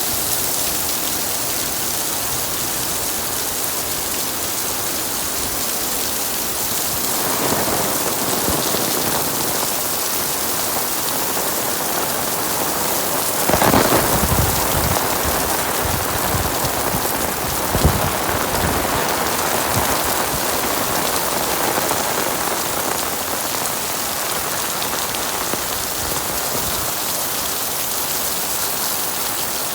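Heavy rain pouring down in a steady hiss, swelling louder about halfway through, with a single short sharp knock a few seconds after the surge.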